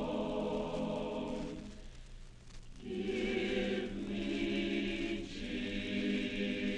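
A choir singing sustained chords. The sound fades to a brief pause about two seconds in, then the voices come back in on a new chord and move through a couple more chord changes.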